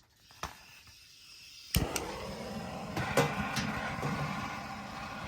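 Nurgaz LPG gas heater being lit: a click and a faint hiss of gas, then a sharp click about two seconds in as the burner catches and runs with a steady rushing sound, with a few more clicks.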